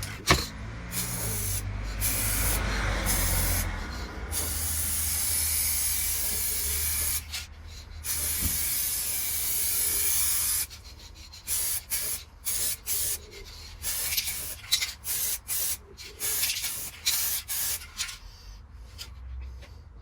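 Aerosol can spraying clear lacquer onto a motorcycle wheel, laying on a thick final coat: long passes of hiss with brief breaks for about the first ten seconds, then many short bursts.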